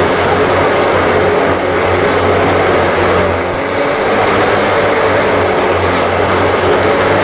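Jawa motorcycle engine running steadily at a fairly constant speed, easing off slightly about halfway through.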